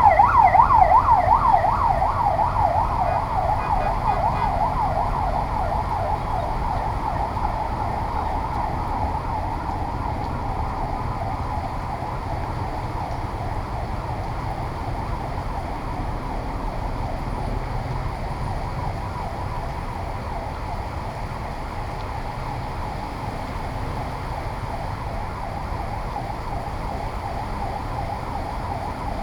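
Emergency vehicle siren in a fast yelp, about three sweeps a second, loud at first and fading over the first several seconds as it draws away, then heard faintly to the end. A steady low rumble of street noise runs underneath.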